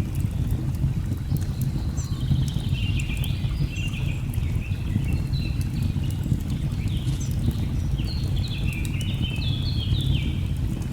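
Log fire crackling with scattered sharp pops over a steady low rumble, while birds call in runs of short, high, stepping notes from about a second and a half in.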